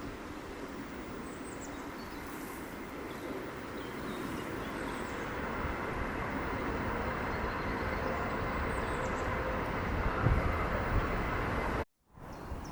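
Rumble of a vehicle that grows steadily louder as it approaches, with faint steady tones in it, while birds chirp briefly now and then; the sound cuts off abruptly shortly before the end.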